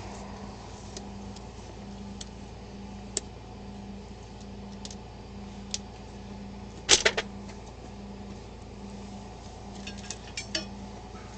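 Scattered clicks and rattles of objects being handled during a vehicle search, with a loud clatter about seven seconds in and a few more clicks near the end, over a steady low hum.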